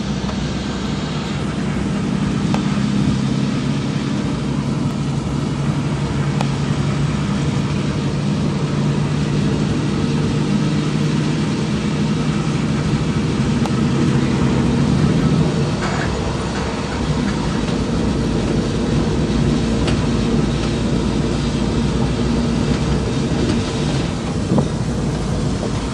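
Torrential rain: a loud, steady, dense roar with a deep low rumble underneath.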